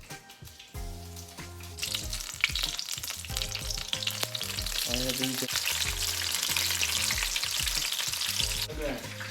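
Egg rolls sizzling as they fry in a hot skillet. The sizzle starts about two seconds in, grows louder, and stops shortly before the end.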